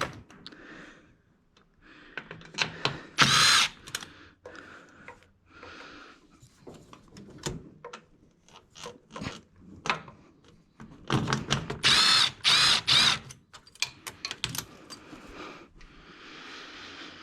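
Power tool driving a socket on an extension to take out bolts on a turbo setup. It runs once briefly about three seconds in, then in several short bursts from about eleven to thirteen seconds, with clicks and clatter of tool and socket between.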